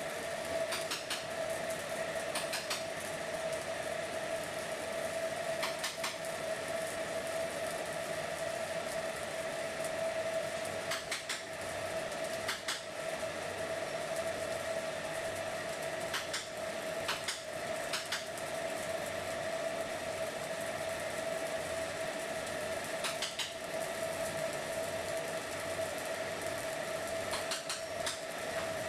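Steady mechanical hum with a fixed pitch, from running machinery, with occasional sharp clicks or taps, sometimes in pairs, scattered through it.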